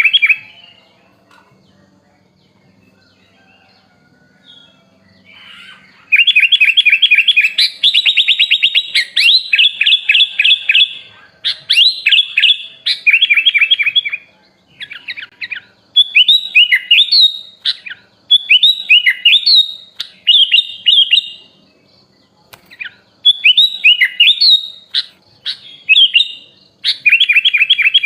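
Sooty-headed bulbul (kutilang) singing a varied song packed with mimicked phrases of other birds. After a quiet first few seconds it breaks into fast runs of repeated chirps and trills and short rising-and-falling phrases, with brief pauses between them.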